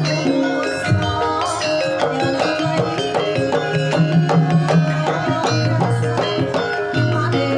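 Javanese gamelan playing a gendhing: bronze metallophones ringing in steady overlapping notes over low kendang drum strokes.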